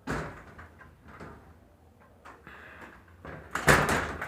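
A door being handled: a sudden noise at the start that fades away, a few light knocks, then a louder bang about three and a half seconds in.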